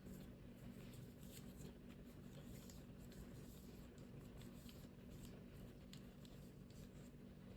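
Faint rustling and creasing of folding paper: many small, scratchy handling sounds over a steady low hum.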